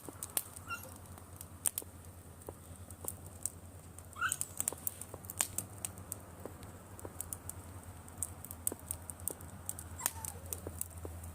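Driftwood campfire crackling, with irregular sharp pops and snaps, and a brief faint squeak about four seconds in.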